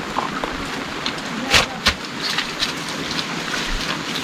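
Heavy rain falling steadily, with sharp drop impacts close by, the two loudest about a second and a half in.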